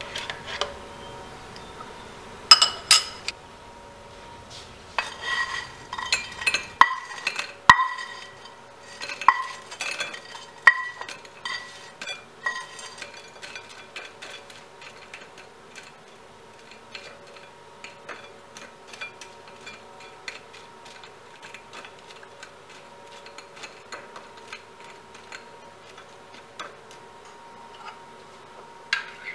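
Dishes and metal cutlery clinking and knocking together, with ringing strikes coming thick for the first dozen seconds, then lighter, sparser taps.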